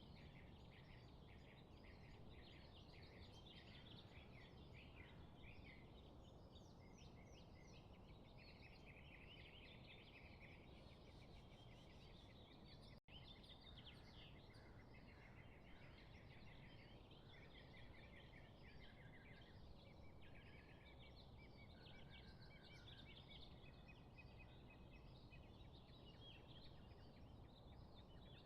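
A faint chorus of many small birds chirping and trilling at once, over a steady low background hiss, with a momentary break about halfway through.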